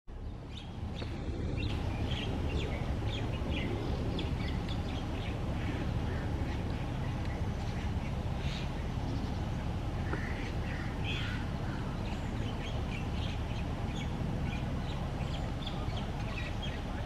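Small birds chirping: many short, high-pitched calls, irregular and overlapping, over a steady low background rumble.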